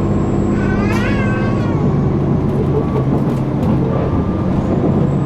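KiHa 261 series diesel railcar's engine running under power, heard from inside the passenger car as a steady drone. About a second in, a brief high cry rises and falls over it.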